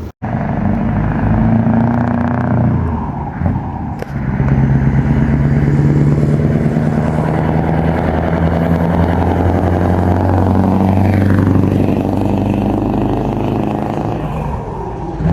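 Scania V8 truck engine on open exhaust pipes, running loud. Its note dips briefly about three seconds in and again a little past halfway.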